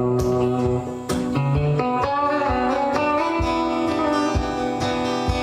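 Instrumental break in a live folk song: a strummed acoustic guitar keeps a steady beat under held, bending melody notes.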